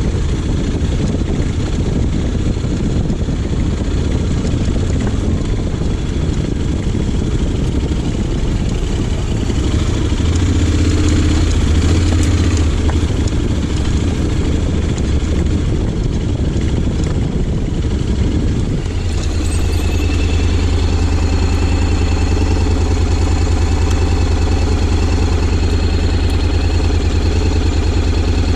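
Honda X-ADV 750's parallel-twin engine running while the scooter is ridden off-road. The sound is louder for a couple of seconds near the middle, then settles into a steady, even note for the last third.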